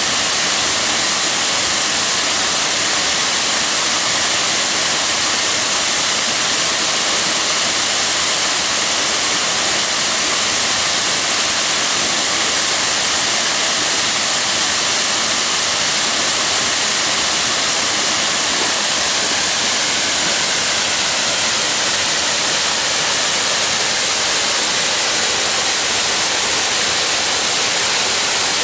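Waterfall rushing in a steady, loud, hissing roar of falling water, with no change in level.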